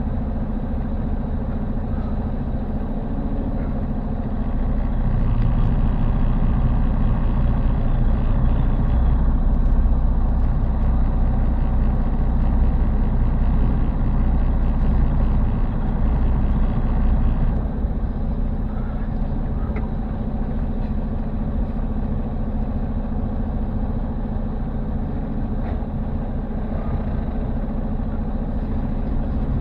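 Semi-truck diesel engine running at low speed during a slow reversing manoeuvre, pulling harder about four seconds in and easing back a little past the middle.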